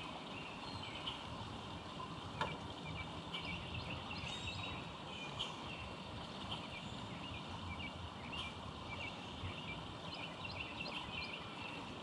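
Wild birds chirping outdoors, many short high calls scattered through, over a steady background hiss, with one sharp click about two and a half seconds in.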